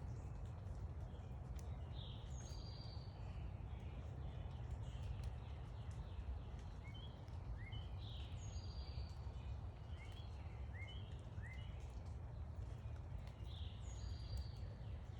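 Backyard songbirds calling over a steady low background rumble: a short high phrase comes three times, about six seconds apart, with a few quick rising chirps in the middle.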